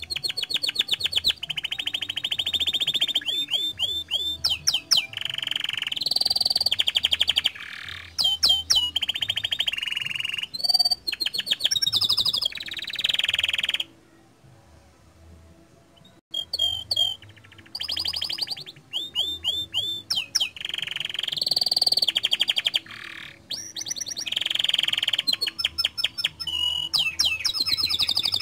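Domestic canary singing loud, rapid trills and rolling phrases, one phrase after another, with a pause of about two seconds halfway through.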